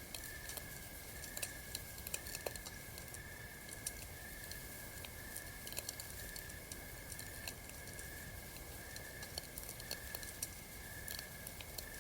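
Campfire crackling, with scattered sharp pops, over a high chirping from night insects that pulses about three times every two seconds.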